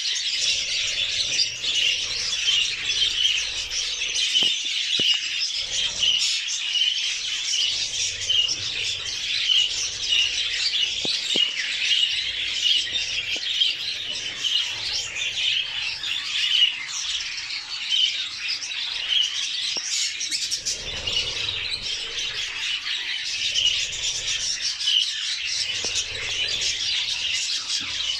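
Budgerigars chirping and warbling in a dense, unbroken chatter.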